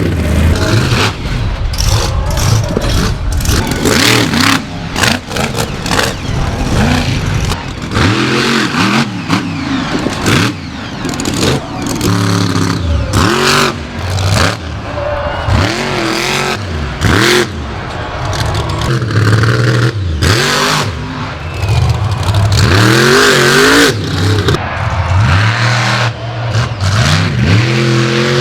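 Monster truck engine revving hard over and over, its pitch climbing and dropping every couple of seconds.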